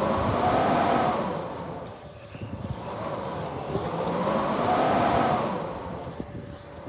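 Blizzard wind howling in two long gusts, each swelling and fading with a whistle that rises and falls in pitch.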